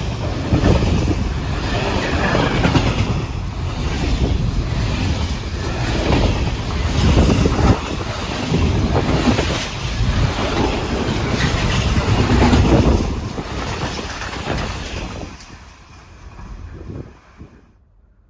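A train passing close by, its wheels clattering over the rail joints over a low rumble. It fades away about fifteen seconds in, and the sound cuts off abruptly just before the end.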